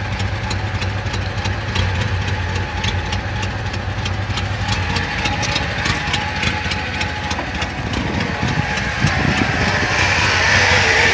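Chevrolet Monte Carlo's engine idling steadily while still warming up after a cold start, with a light, regular ticking over the first several seconds. A hiss builds near the end.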